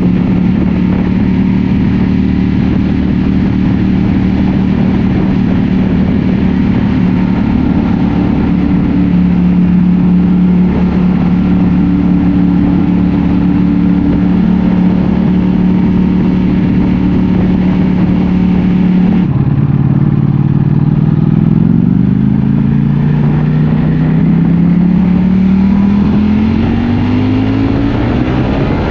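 Ducati Panigale V4 S's Desmosedici Stradale V4 engine running at a steady pitch for about nineteen seconds, then dropping in pitch and rising twice as the bike accelerates through the gears.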